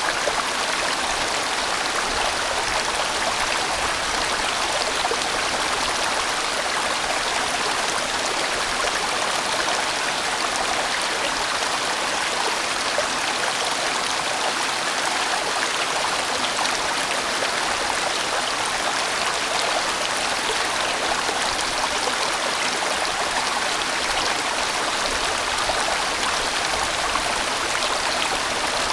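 A large, winding mountain-valley stream flowing: a steady, even rush of water with no breaks or single splashes standing out.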